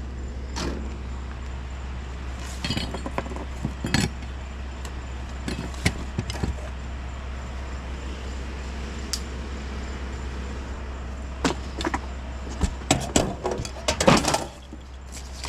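Rummaging through discarded household junk: scattered clinks and knocks of small hard objects being picked up and dropped, busiest near the end, over a steady low hum.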